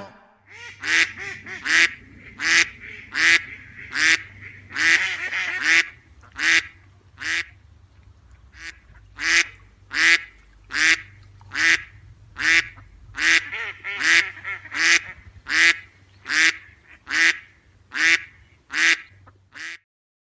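More than twenty short quack-like calls in a steady rhythm, a little over one a second, over a faint low hum. It all stops just before the end.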